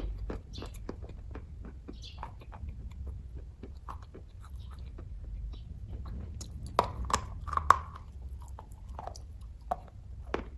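Someone chewing kaju katli (cashew fudge), a run of short, wet mouth clicks and smacks that grow louder for a moment about seven seconds in. A steady low hum runs underneath.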